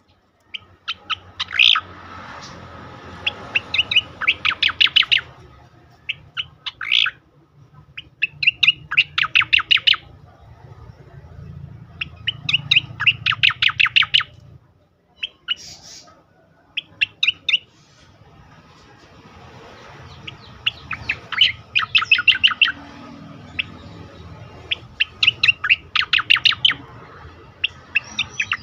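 Sooty-headed bulbul (cucak koreng) singing in rapid-fire bursts: strings of sharp repeated notes, about eight bursts of one to two seconds separated by short pauses, over a low steady hum.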